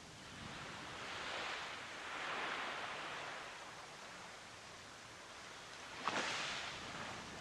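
Ocean surf washing in slow swells, with a sharper, louder wave breaking about six seconds in.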